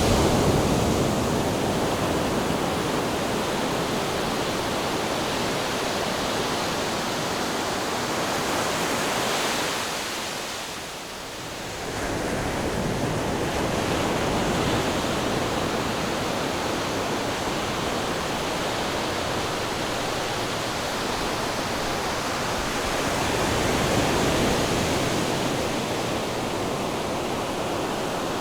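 Ocean waves surging and washing in as a continuous rush, swelling at the start and again near the end, with a brief lull about ten seconds in.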